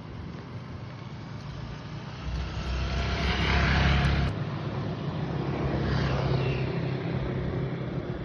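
Motor vehicle engines running past, one swelling up loudly and cutting off abruptly about four seconds in, then a second, smaller pass.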